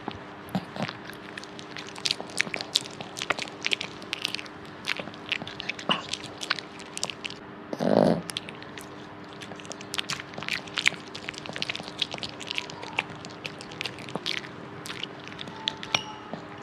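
A dog chewing and eating, with many quick crunching clicks, one short louder puff of noise about halfway through, and a steady faint hum underneath.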